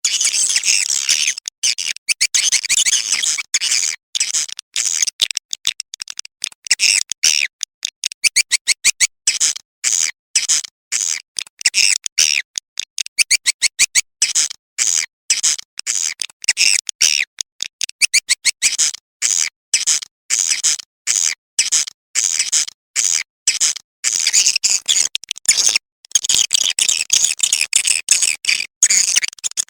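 Recorded swiftlet calls: rapid, high-pitched chirping and twittering in quick runs of short notes with brief gaps. It is a blended lure track of the kind played to draw swiftlets into a nesting house.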